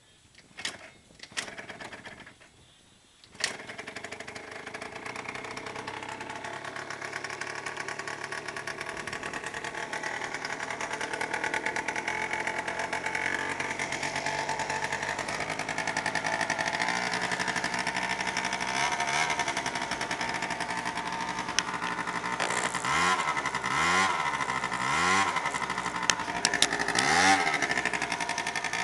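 Small scooter engine started with a couple of short cranks, catching about three and a half seconds in and settling into a steady idle. Near the end the throttle is blipped in several short revs, each rising and falling.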